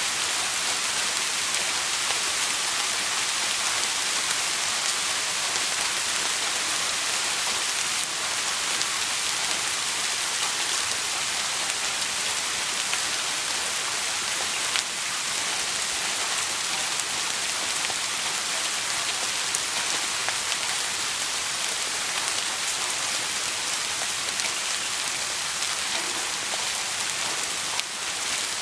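Steady rain falling, an even dense hiss with a few faint sharp ticks.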